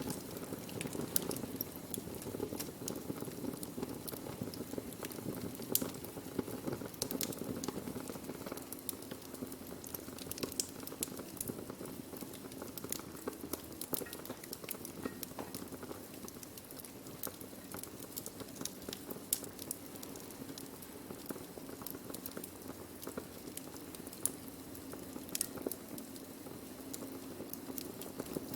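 Burning wood crackling and popping steadily, with many sharp irregular snaps over a low, steady rush of the flames.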